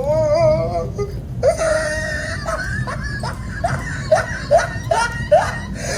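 A high, wavering, voice-like wail, then a quick run of short rising cries, over a steady low hum.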